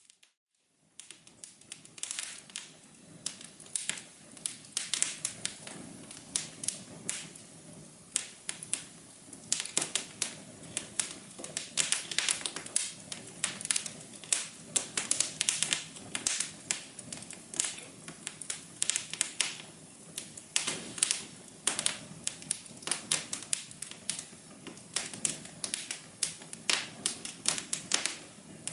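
Wood fire crackling in a fireplace: dense, irregular pops and snaps over a low steady hiss. It starts after a gap of near silence lasting under a second.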